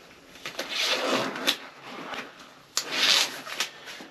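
Two bursts of rubbing and scraping, each about a second long, with a few small clicks.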